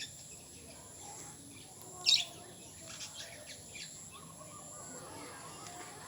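Pet lovebirds chirping: one loud, sharp chirp about two seconds in, with fainter short chirps after it.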